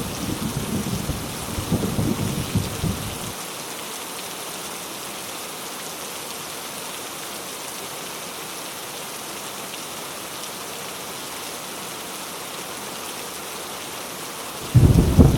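Heavy rain falling steadily with thunder: a low rumble of thunder dies away in the first three seconds, leaving the rain hiss alone, and another rumble breaks in suddenly near the end.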